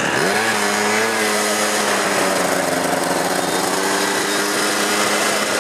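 Small motorcycle engine revving up quickly and then held at high revs under acceleration, a steady buzzing note with slight wavering.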